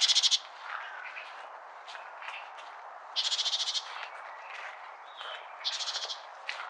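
A bird's short, rapid, buzzy trill, repeated three times about two and a half seconds apart.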